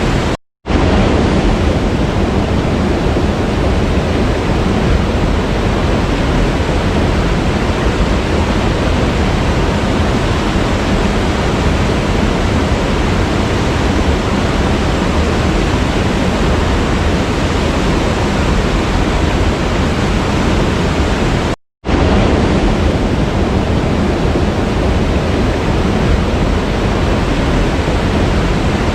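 Waterfall, a steady dense rush of falling water. It cuts to silence for a split second twice, just after the start and about three-quarters of the way through, at the seams of a looped recording.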